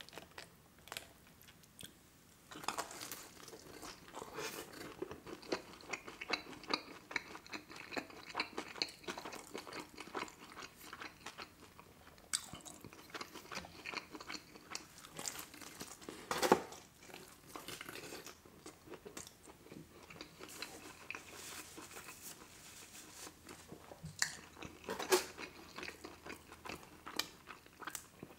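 Close-miked chewing and biting of a pepperoni pizza slice: wet mouth sounds and crackling crust, quiet at first, with a few louder crunches about halfway and near the end.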